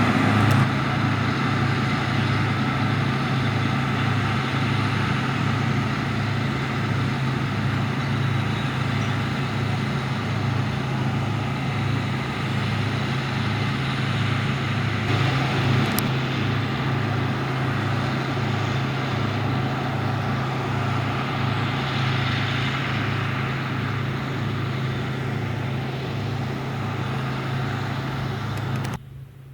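Heavy diesel harvest machinery running steadily at close range, a deep engine drone with an even pulse. It cuts off suddenly near the end.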